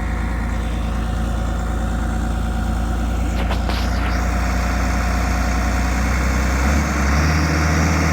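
Case 850K crawler dozer's diesel engine running steadily, its pitch rising a little about seven seconds in.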